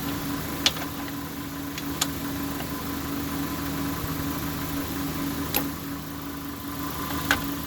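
About four sharp clicks and taps of parts being handled on a disassembled concrete saw, over a steady machine hum with two low tones.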